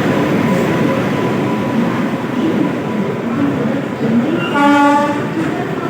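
Mumbai suburban local train running with a steady rumbling rail noise, and a short train horn blast of about half a second near the end.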